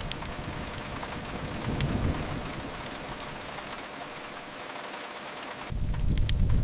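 Steady hiss of rain on a window with a few sharp crackles of a wood fire. Under it a low rumble fades out midway and cuts back in abruptly near the end.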